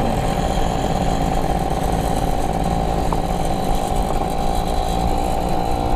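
Yamaha F1ZR two-stroke moped engine running steadily under throttle while riding, at an even pitch.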